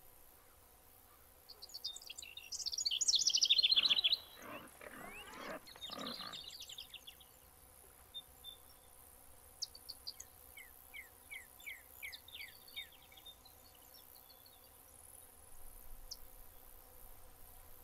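Small birds chirping and singing outdoors, loudest in a fast burst of high chirps about three seconds in, followed by a lower, rough animal call for about two seconds, and later a run of short falling chirps at about two a second.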